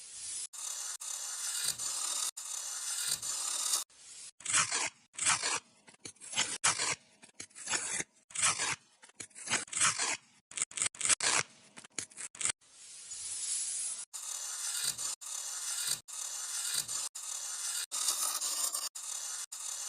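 Sand being rubbed and scraped across a surface while a sand-art picture is made, as dry hissing friction. Short repeated strokes alternate with longer continuous stretches, broken by sudden cuts.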